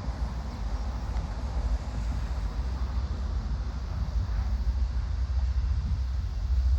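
Train passing on the tracks: a steady low rumble with a rushing hiss over it.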